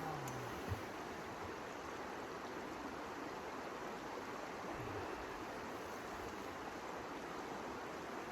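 A steady rushing noise, with one short knock a little under a second in.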